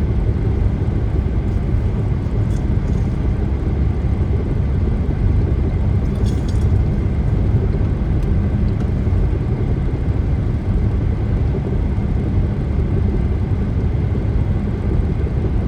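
Steady rumble of tyres and engine from a car driving along a turnpike, heard from inside the car.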